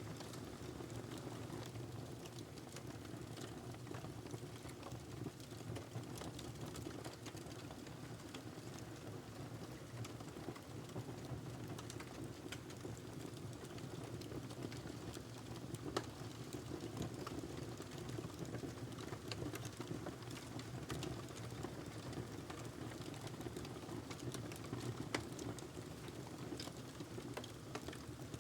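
Wood fire in a fireplace burning steadily, with a low rushing of the flames and a scatter of small crackles and sharper pops from the logs.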